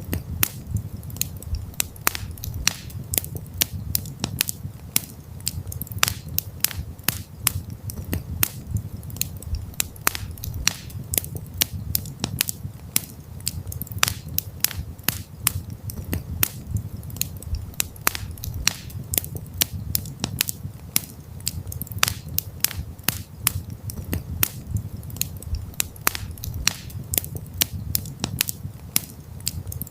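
Wood campfire crackling: many sharp, irregular pops and snaps over a low steady rumble.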